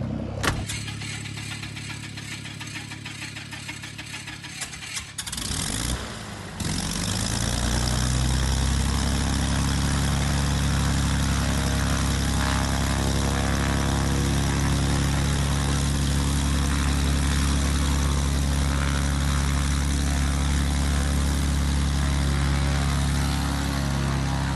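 Helicopter engine and rotor coming up to speed about six and a half seconds in, rising briefly in pitch and then running loud and steady.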